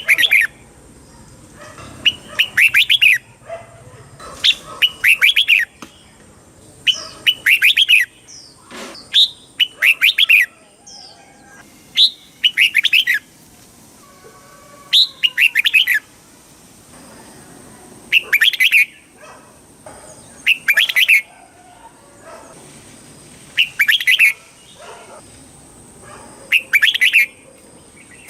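Red-whiskered bulbul singing short, quick warbling phrases, each about a second long, repeated every two to three seconds.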